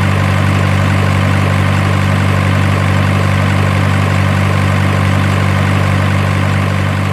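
Truck engine idle sound running steadily, a deep even drone.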